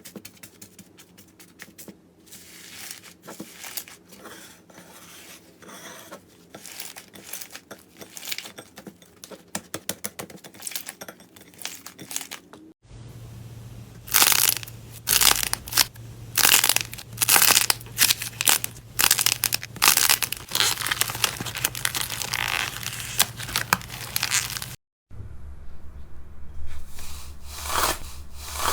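Slime being squeezed, pressed and stretched by hand close to the microphone, giving rapid crackling, popping and sticky clicking. The texture changes abruptly twice, about 13 and 25 seconds in, and is loudest and densest in the middle section.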